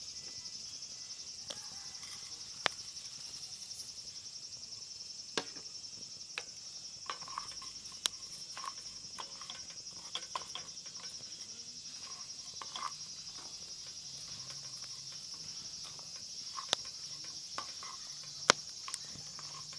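Insects chirring steadily in a continuous high drone, with scattered sharp clicks and taps a few seconds apart.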